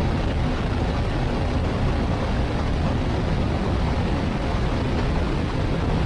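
Motorcycle cruising at highway speed: a steady rush of wind and engine and road noise.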